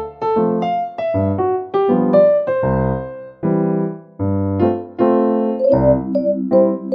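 Background piano music: a melody of single struck notes over bass notes, at a gentle, moderate pace.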